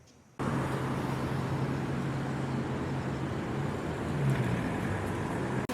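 Steady running noise of a motor vehicle: a low, even hum over a constant rumble. It starts abruptly about half a second in.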